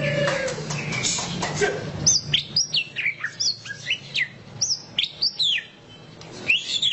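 White-rumped shama (murai batu) singing loudly: a fast string of short, sharp whistled notes that sweep steeply down and up in pitch, several a second, after a lower falling note at the start.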